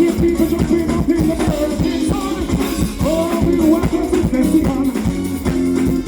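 Live band music with a steady beat, guitar and drums, with a voice singing over it.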